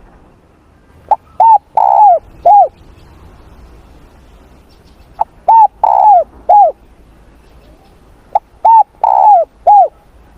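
Spotted dove cooing: three repeats of its song phrase, each a short opening note followed by three coos, the middle one longer and rolling.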